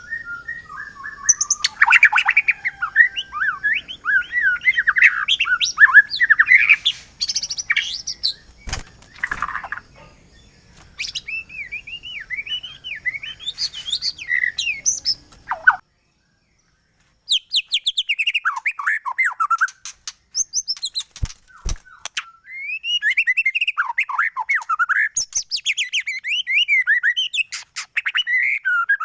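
White-rumped shama (murai batu) song: bursts of fast, varied whistles, slurred notes and rattling trills with short pauses between phrases. The song cuts out completely for about a second around sixteen seconds in.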